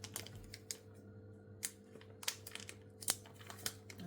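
Plastic bag of curry powder crinkling and crackling in irregular sharp clicks as it is handled and pulled at, a struggle to tear it open.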